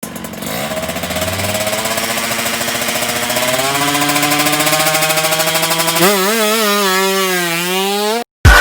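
Two-stroke motorcycle engine revving with a rapid, buzzy firing beat. Its pitch climbs slowly at first, then is blipped up and down from about six seconds in, and it cuts off abruptly near the end.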